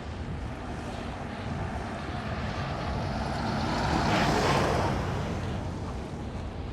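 A car passing by, its tyre and engine noise swelling to a peak about four seconds in and then fading, over steady wind and surf.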